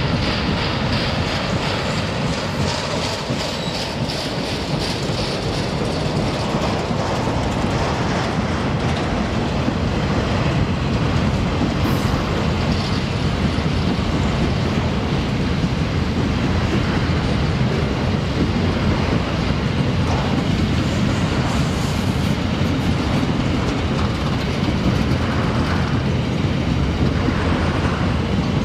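A long freight train of covered hopper wagons rolling past at steady speed: a continuous low rumble of wheels on rail, with a rhythmic clacking of the wheels running through it.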